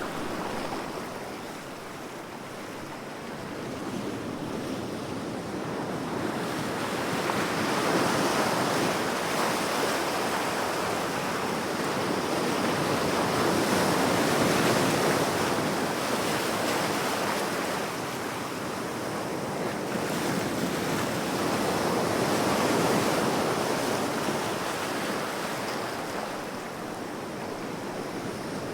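Ocean waves breaking and washing on the shore in slow swells, each lasting several seconds, with some wind.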